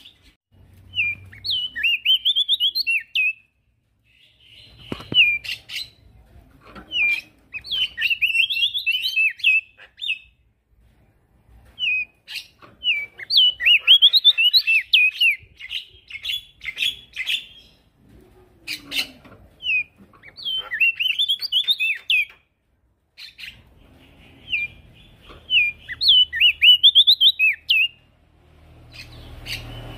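Male prenjak daun singing steadily: short bursts of rapid, high, chattering chirps, repeated every few seconds with brief pauses between.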